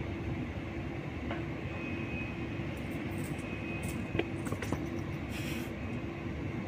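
A train in a railway station: a steady low rumble with a constant hum, a few sharp metallic clicks about four seconds in, and a brief hiss soon after.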